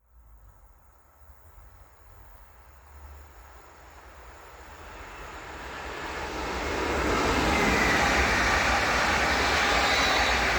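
A train approaching, growing steadily louder over about seven seconds and then passing close by.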